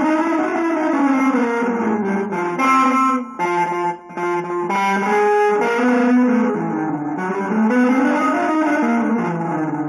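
Guitar music: held notes that slide up and down in pitch, with a run of shorter notes in the middle and a brief drop in level about four seconds in.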